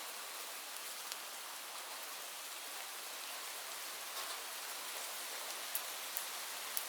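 Steady hiss of rain with a few sharp crackles from a wood fire scattered through it, the loudest near the end.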